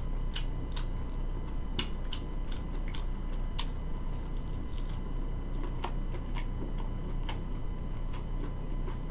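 A person chewing fried food, with soft irregular mouth clicks and smacks, about one or two a second, over a steady low hum.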